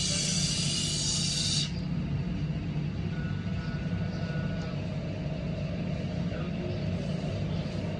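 Gas brazing torch hissing, then shut off about one and a half seconds in, leaving a steady low hum.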